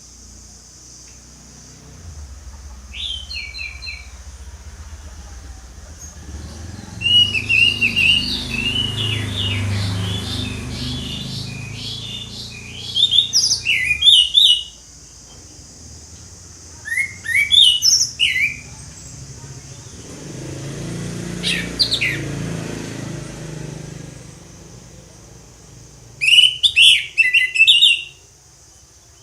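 Orange-headed thrush singing loudly in separate phrases of quick, rising and falling whistled notes, with pauses of a few seconds between them. A steady high hiss runs underneath, and a low rumble swells and fades twice.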